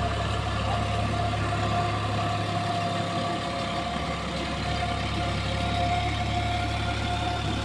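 Eicher 551 tractor's diesel engine running steadily, with a constant steady whine over the engine note.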